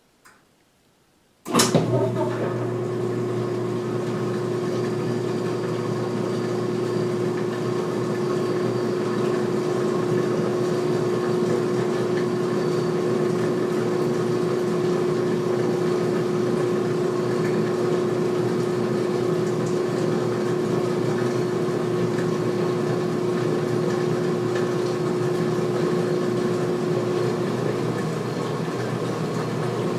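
2016 Speed Queen top-load washer starting its spin drain at the end of the pre-wash. After a couple of faint clicks, the motor and drain pump start abruptly about a second and a half in and run steadily, with a constant hum.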